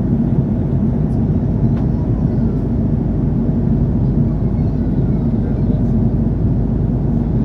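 Steady low rumble of an Airbus A330-300 cabin in flight, the Rolls-Royce Trent 700 engines and airflow making an even, unbroken noise.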